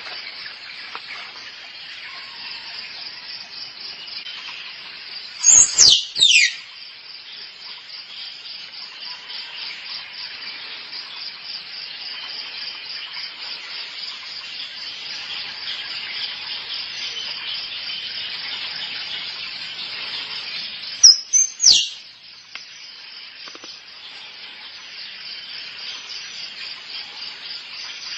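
Squirrel mating calls: two bursts of three sharp, high calls, each sliding downward in pitch, about five seconds in and again about twenty-one seconds in. Under them runs a steady, finely pulsing insect chorus.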